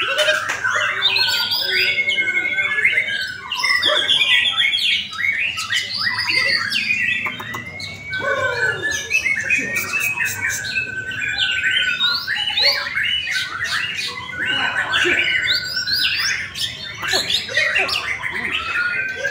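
Several white-rumped shamas singing at once, a dense overlap of loud whistles, fast trills, glides and chattering phrases.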